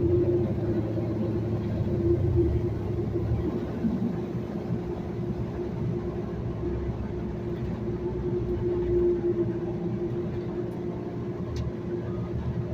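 Transit bus running, heard from inside: a low rumble under a steady hum, the rumble heavier for the first three seconds or so.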